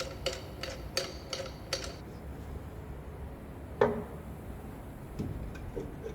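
Metal clicks from hand tools on truck suspension bolts: a run of sharp clicks, about three a second, for the first two seconds, then a single louder knock near four seconds in and a few faint clicks near the end.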